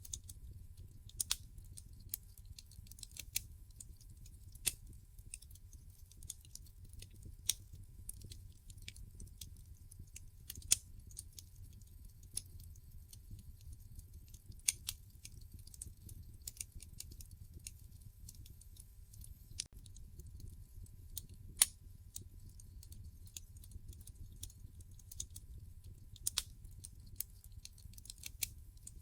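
Wood fire in a fireplace crackling: irregular sharp pops and snaps from the burning logs, a few louder ones, over a low steady rumble of the flames.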